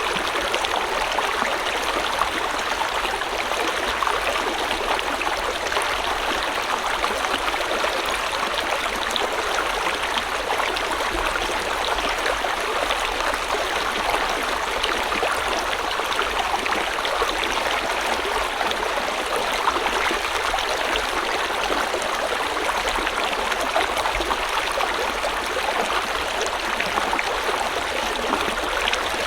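River water flowing over rocks in a steady, even rush with a fine trickling texture.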